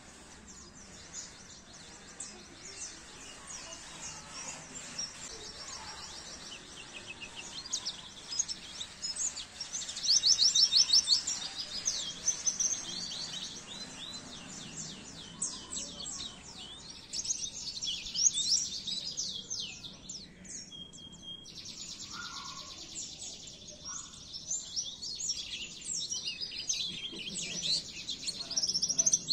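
White-eye (pleci) singing: a fast, high twittering of chirps and rapid trills with almost no pause. It comes in louder bursts about ten seconds in and again through the second half.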